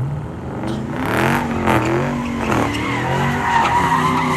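Car engine revving hard, its pitch repeatedly rising and falling, with tires squealing from about three seconds in as the car spins its wheels leaving.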